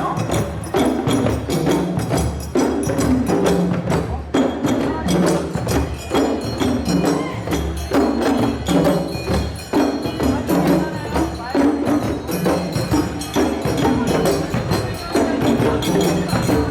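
Percussion ensemble playing a driving, repeating rhythm on drums with bright bell or wood-block strikes on top.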